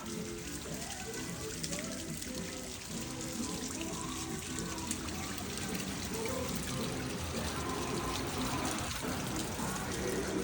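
Background music over a steady wash of running water.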